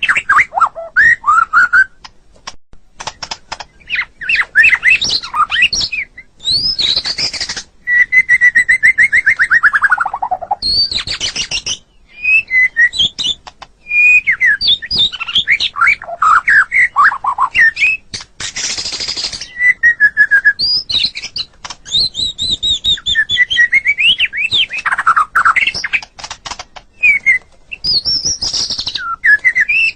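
White-rumped shama (murai batu) singing a long, varied song of clear whistled phrases, rapid trills and short harsh hissing notes, with a long falling rattled note about eight seconds in.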